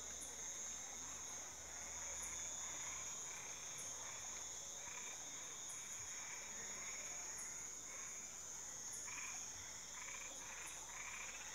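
Night chorus: a steady high insect trill, with frogs calling in short notes over and over, more thickly near the end.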